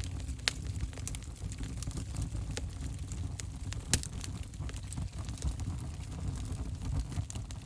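Wood fire in a fireplace crackling, with a steady low rumble of flame and scattered sharp pops, the loudest about four seconds in.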